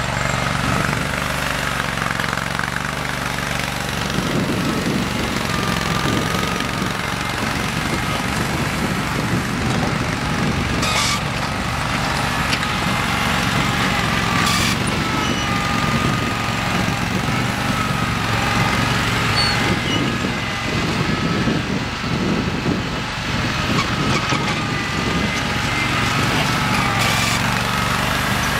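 Simplicity Legacy garden tractor engine running steadily under way, with a few short sharp knocks over it.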